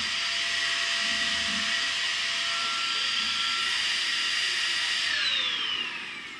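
Shark Rocket Professional stick vacuum running with a steady high whine, then switched off about five seconds in, its motor winding down with a falling whine.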